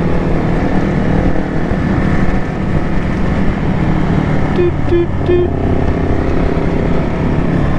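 Motorcycles running steadily at road speed, with three short horn toots about halfway through.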